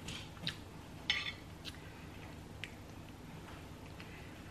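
Faint wet mouth clicks and smacks from chewing a soft chewy candy, a few short ones in the first three seconds.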